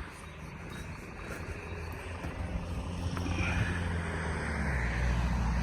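Heavy fire engine's diesel engine running, growing louder as it approaches, with a deep low hum.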